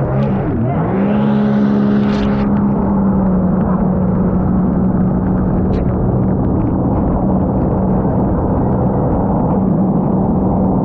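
Sea-Doo GTR230 personal watercraft's supercharged three-cylinder engine under way on the water: the revs drop sharply just after the start, pick back up within about a second and then hold steady.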